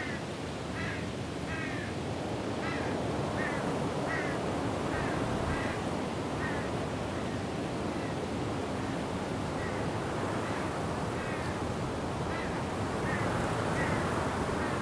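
Steady rush of wind and rain through forest trees, with a bird calling in a series of short repeated notes, about one a second, that fade out midway and return near the end.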